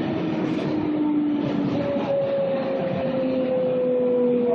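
A 6 train subway car running, with a steady rumble and a motor whine that slowly falls in pitch.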